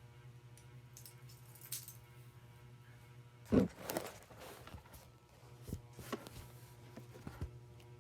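A few light clicks and knocks of small hard objects, the loudest about three and a half seconds in followed by a brief clatter, over a steady low hum.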